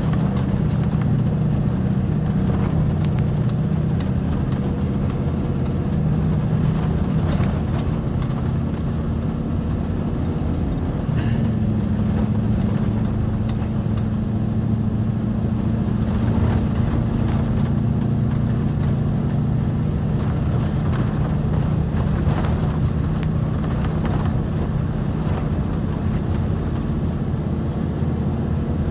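A vehicle engine running steadily, its pitch shifting up a little about eleven seconds in, with scattered clicks and knocks over it.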